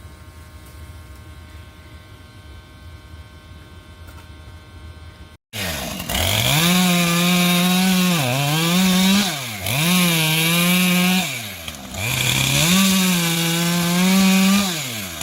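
Two-stroke chainsaw cutting wood. About five seconds in, after a brief gap, it comes in loud and is run up to full throttle about four times, each run rising to a high steady pitch and then dropping off between cuts. Before the gap there is a quieter steady hum.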